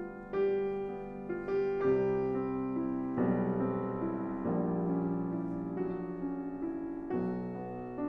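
Slow, gentle solo piano music, with soft notes and chords sounding one after another and ringing on.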